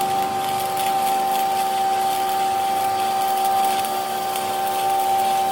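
A workshop machine running steadily with a constant whine over a noisy hum.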